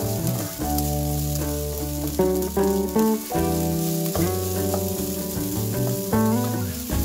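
Fried rice sizzling in a nonstick wok while a wooden spatula stirs and scrapes through it, under background music.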